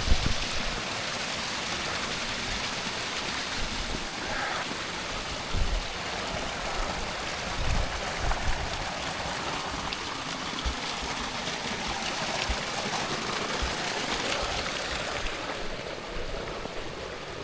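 A hill stream running over rocks: a steady rush of water, with a few soft low bumps now and then.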